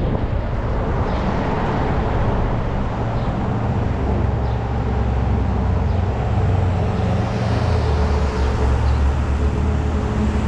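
Steady road traffic noise with a low engine rumble from passing motor vehicles, heard from a moving bicycle. The rumble swells about two-thirds of the way through.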